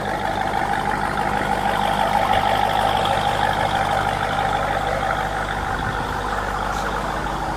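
Supercharged engine idling steadily, with a steady whine over the engine note.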